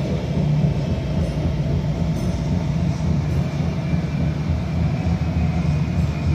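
Light rail train in motion, a steady low rumble of running gear and motors.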